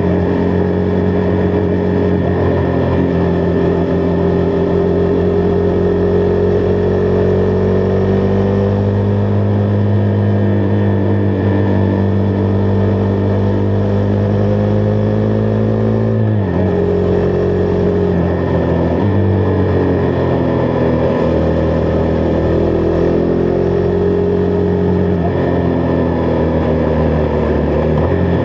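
Husqvarna Vitpilen 401's single-cylinder engine running at steady cruising revs while riding, its note slowly rising, then dropping sharply about sixteen seconds in and dipping twice more later.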